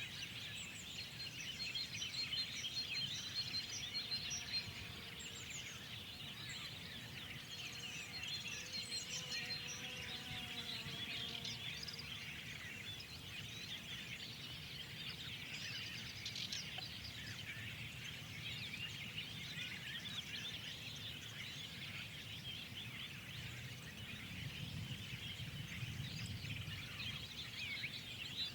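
Dense chorus of many small birds chirping and twittering together, a spring dawn-chorus ambience, with one bird repeating a rapid high note early on and again about ten seconds in. A low background rumble swells slightly near the end.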